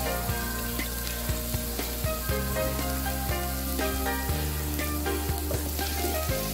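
Chopped garlic, onion and a green chili sizzling as they sauté in a pot, with soft background music of held notes underneath.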